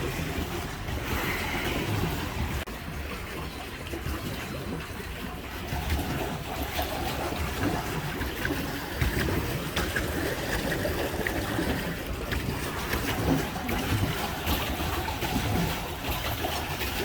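Water churning and splashing against a pedal boat as it is pedalled along, with wind buffeting the microphone.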